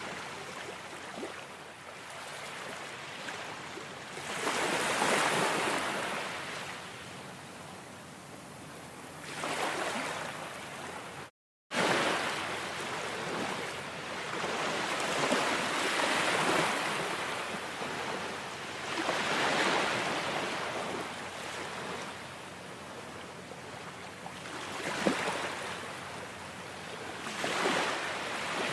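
Ocean waves breaking and washing on a shore, swelling and falling every few seconds. The sound cuts out completely for a moment about eleven seconds in.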